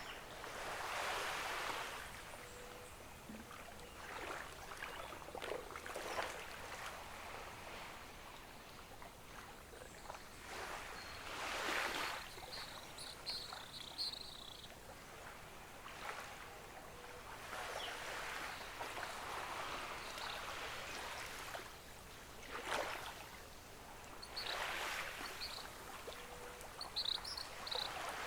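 Gentle ocean waves washing onto a beach, each soft wash of surf swelling and fading every few seconds.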